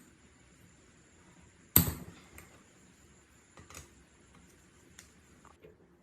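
Metal parts being handled on a workbench: one sharp clack with a short high ring about two seconds in, then a few light clicks.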